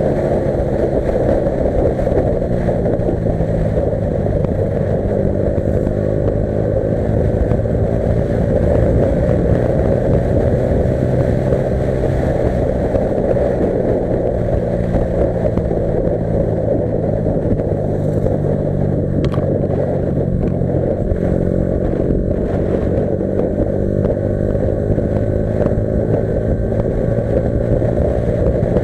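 Yamaha R15 V3's single-cylinder engine running steadily under way, its pitch drifting gently up and down with the throttle.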